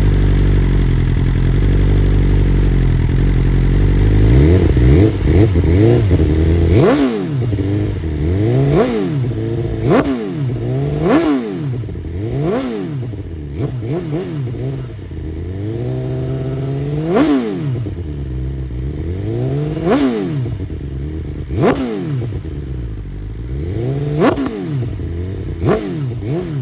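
BMW S1000RR's inline-four engine breathing through an Akrapovic Evolution titanium full exhaust, idling steadily and then revved in about a dozen quick throttle blips, each rising sharply and falling back to idle.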